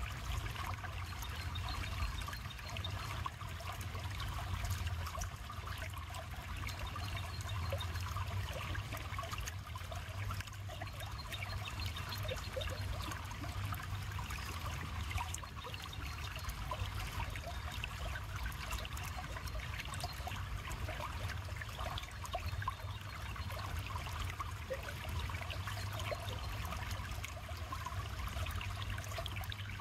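River water flowing and trickling steadily, with many small splashes and bubbles over a low, even rumble.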